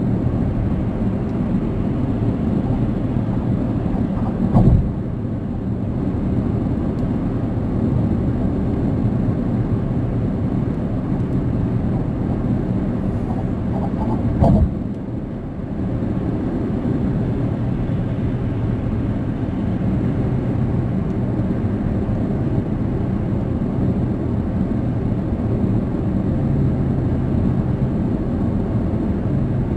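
Steady road and engine noise inside a moving car's cabin, a low rumble from tyres on the highway. Two brief louder bumps break it, about four and a half seconds in and again near the middle.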